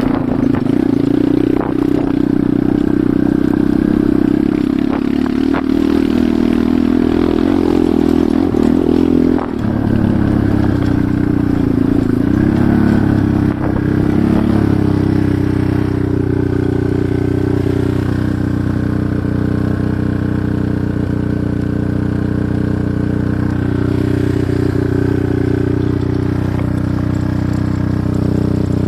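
Enduro motorcycle engine running while riding. About ten seconds in its pitch drops and wavers for a few seconds, then it holds a steady note.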